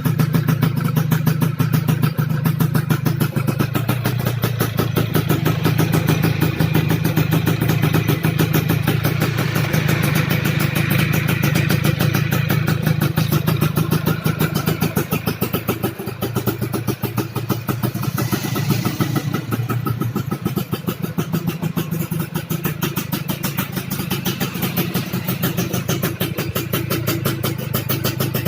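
Yamaha F1ZR's road-race-tuned two-stroke single-cylinder engine running steadily with rapid, even firing pulses, settling a little quieter about halfway through.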